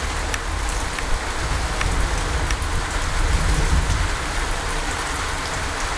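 Rain falling in a thunderstorm: a steady hiss with scattered sharp drop hits over a low rumble.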